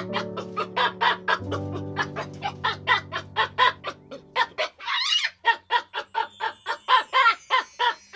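Comic background music built on a steady beat of clucking, chicken-like sounds, about four a second, over a sustained bass line, with a brief sliding sweep about five seconds in.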